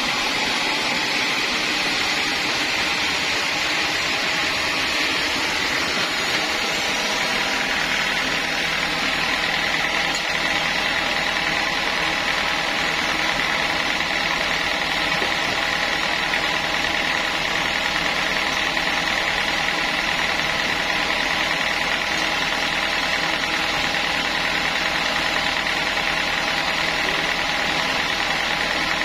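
Sawmill saw machinery running steadily with an even mechanical hum, a higher ringing note growing stronger about a third of the way in.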